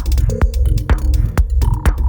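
An electronic dance track in progress playing back: a steady kick drum about twice a second over a deep, throbbing bass, with hi-hats ticking between the kicks. A high synth note comes in near the end.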